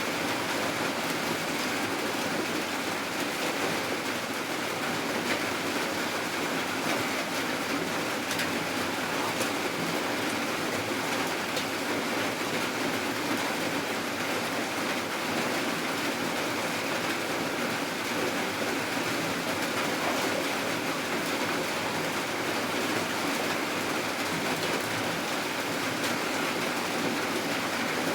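Steady rain falling: an even, unbroken hiss with faint scattered ticks of drops.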